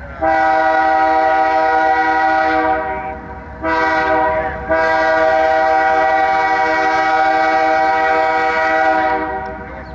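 Freight locomotive's multi-note air horn sounding a long blast, a short blast and then a long blast of about four seconds, over the low rumble of the passing train.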